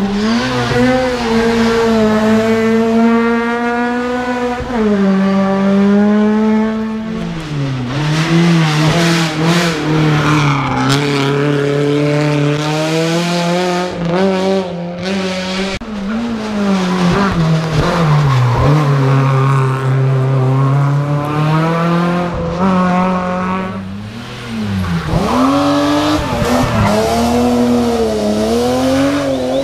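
Rally car engine at full throttle heard onboard, pitch climbing through the gears and dropping sharply on lifts and downshifts several times, the deepest dip about 25 seconds in. Tyres squeal in places through the corners.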